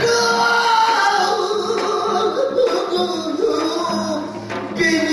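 Pansori-style singing with long held notes that bend in pitch, accompanied by the janggu hourglass drum, with drum strokes near the end.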